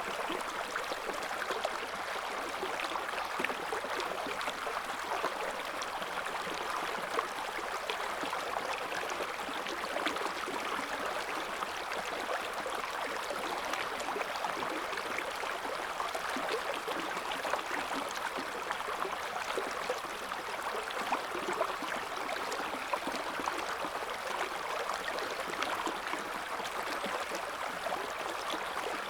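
River water flowing over stones: a steady rush with fine splashing and gurgling.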